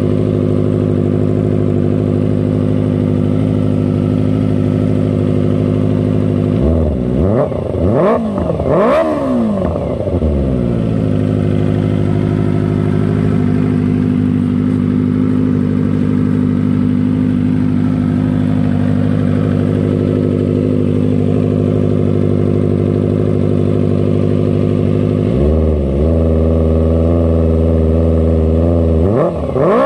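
Kawasaki ZX25R's 250 cc inline-four through a LeoVince full-system exhaust, idling steadily. It is blipped in a few quick revs about seven to ten seconds in, then held at a higher steady rev near the end before one more quick blip.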